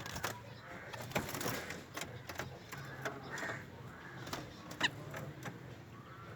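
Small birds calling in short chirps, one sharp rising chirp about five seconds in, among scattered clicks and knocks over a low steady hum.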